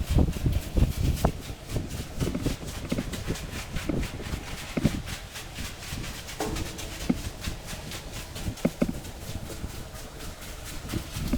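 Footsteps on a dry, rough trail: irregular steps and scrapes, a few sharper knocks among them.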